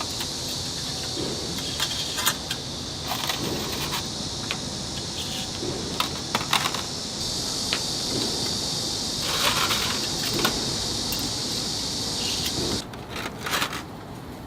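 Chicken grilling over an oak fire: a steady sizzling hiss with scattered crackles and metal clinks. The hiss drops out for a moment near the end.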